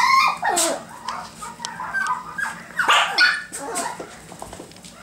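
Biewer Yorkshire terrier puppies yipping and whimpering in short, high-pitched calls, loudest at the start and again about three seconds in, dying down near the end.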